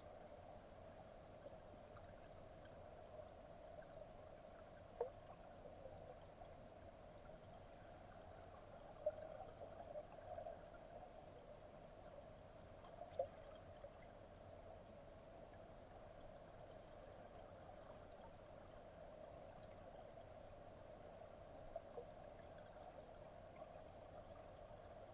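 Faint, steady rush of a mountain headwater stream, with a few faint clicks scattered through.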